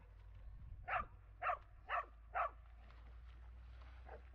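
A dog barking in a quick run of four barks, about two a second, then one fainter bark near the end.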